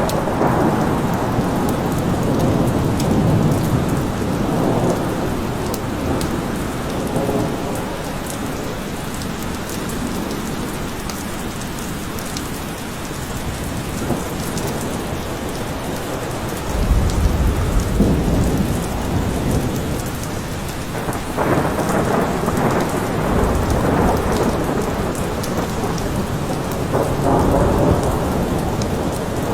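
Steady rain falling in a forest, with rolls of thunder. There are deep rumbles about 17 seconds in and again about 23 seconds in.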